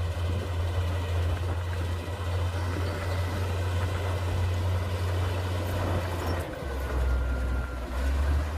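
Komatsu D58P bulldozer's diesel engine running with a deep, steady drone; about six and a half seconds in its note drops lower, then rises again near the end.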